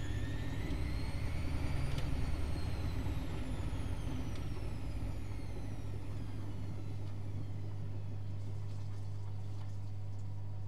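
Privileg Multispar 5110 washing machine in a 75°C hot wash: the drum motor whines upward in pitch, peaks about two seconds in, then winds slowly down as the drum coasts to a stop, over a steady low hum.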